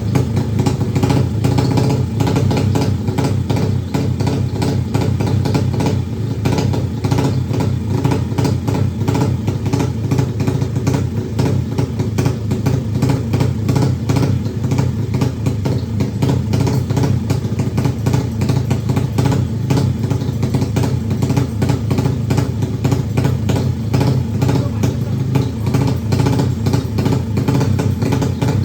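Yamaha MX drag-race motorcycle engine idling steadily, with no revving.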